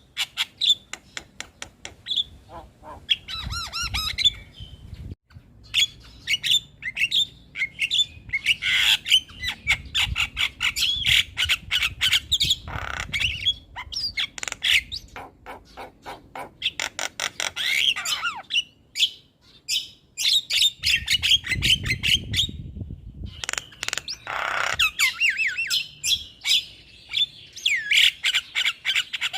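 Javan myna singing vigorously: a busy, rapid chatter of clicks, whistles and harsh squawks, broken by a few brief pauses.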